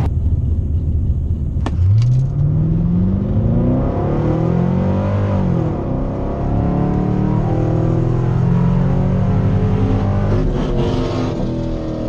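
C5 Corvette's V8 at full throttle on a drag-strip pass, heard from inside the car. The revs climb hard after launch and break back at two gear changes in the first six seconds, then keep pulling high to the top end. Near the end the driver lifts and the revs fall away.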